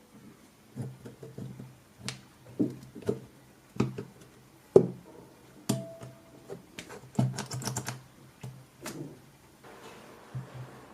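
Irregular light clicks and knocks of small parts and tools being handled during work on a cordless screwdriver, with a quick run of rapid clicking about seven seconds in and a brief faint hum around six seconds in.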